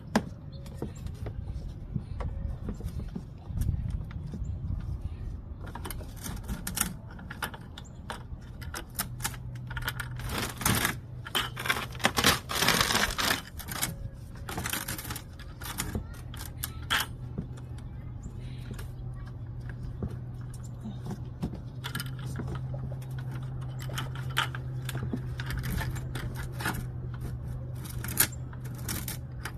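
Irregular metallic clinks, rattles and scrapes of hand tools being worked on the van. A steady low hum comes in about nine seconds in.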